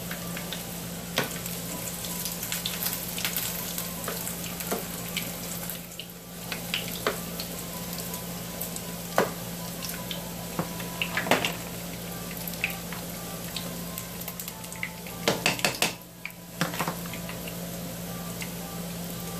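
Egg rolls frying in shallow oil in a frying pan: a steady sizzle with scattered sharp pops and crackles of spattering oil, and a quick run of pops near the end.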